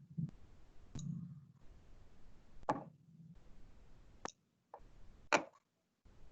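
A few faint, isolated clicks, about a second or so apart, over a low background hum.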